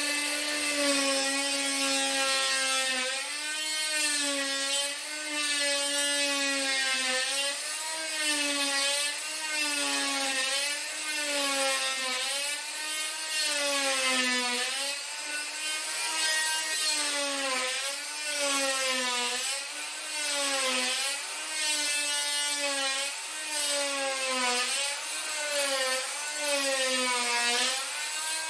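High-pitched power tool cutting, its motor pitch dipping and recovering about once a second as it is pushed into the cut and eased off.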